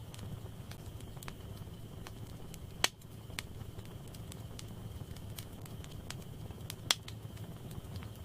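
Wood fire in a fireplace crackling, with a steady low rumble of flames and scattered sharp snaps. Two loud pops stand out, about three seconds in and again near seven seconds.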